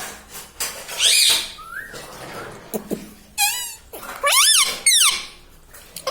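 Ringneck parrot calling: a series of loud, high squawks that sweep sharply up and down in pitch, with a quick warbling trill about three and a half seconds in.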